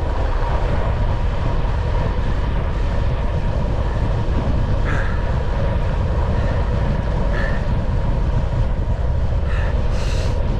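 Steady low rumble of road and wind noise from a vehicle cruising along a smooth road, unbroken throughout.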